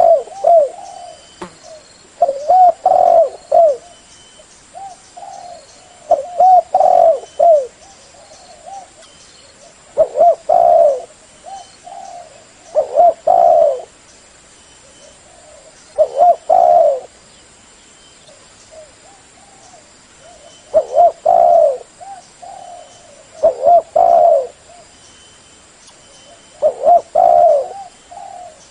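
Spotted dove (terkukur) cooing: a phrase of several low coo notes repeated about every three seconds, loud and insistent, the kind of call used to lure wild doves.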